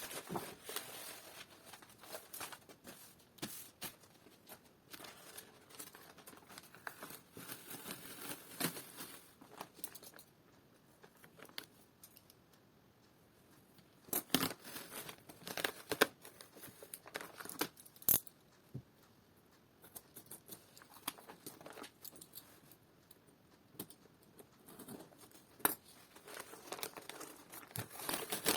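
Crinkly sheet material being handled and torn, rustling on and off, with a few sharp clicks and snaps in the second half.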